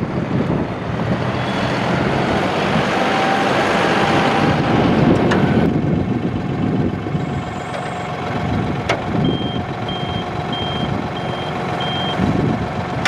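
A tractor's diesel engine running, with a loud rushing noise over it for the first several seconds that then eases off. About nine seconds in, five short high beeps sound, evenly spaced.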